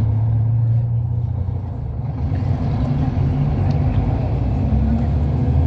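Hyundai Universe Space Luxury coach heard from inside the passenger cabin while under way: a steady low rumble of engine and road noise, its pitch shifting slightly.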